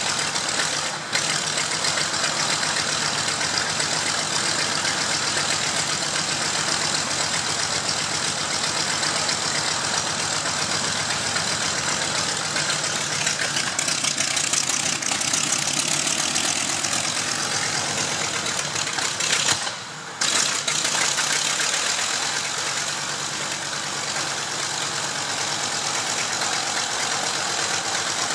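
A Zero fighter's radial aero engine running steadily on the ground, with a short break in the sound about two-thirds of the way through and running a little quieter after it.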